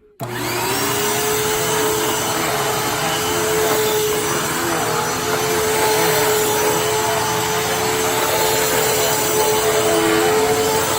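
Hoover WidePath Foldaway upright vacuum (model U5175-900) switched on: the motor starts suddenly, its whine rising briefly as it spins up, then running steadily.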